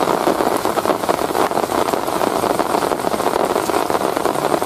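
Steady rain pattering, a dense even hiss made of many small taps that does not change.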